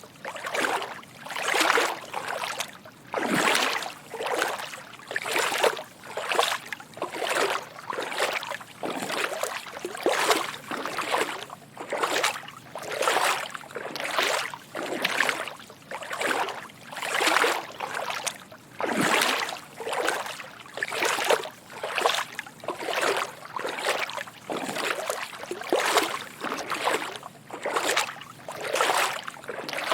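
Footsteps wading through shallow water: soft sloshing and splashing with each step, in a steady walking rhythm of about one step a second.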